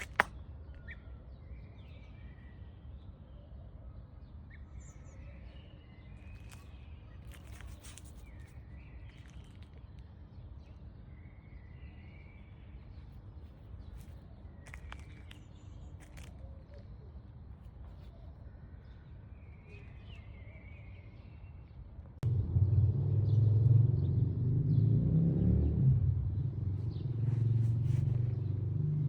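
Birds chirping over a low steady rumble, with a few faint clicks. About 22 seconds in, a much louder low rumble starts suddenly and continues.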